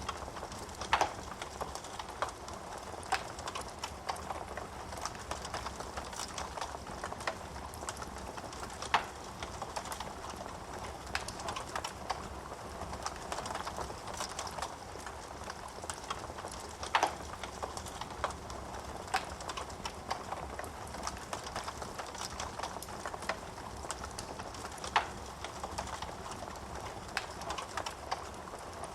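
Wood fire in a fireplace crackling: a steady hiss of small crackles with scattered sharp pops of burning wood, four louder pops spaced about eight seconds apart.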